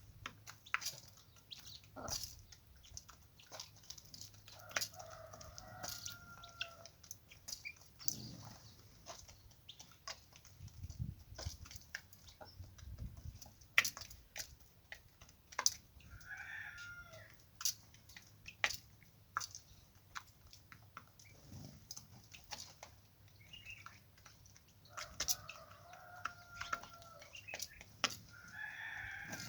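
Chickens calling, with two rooster crows each about two seconds long and shorter calls between, over frequent sharp taps and clicks.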